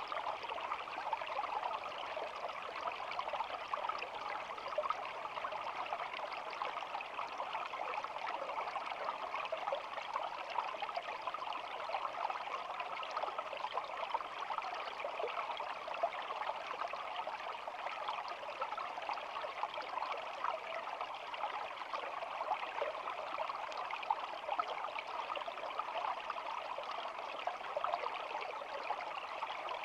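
Shallow stream flowing and babbling over stones, a steady trickling water sound.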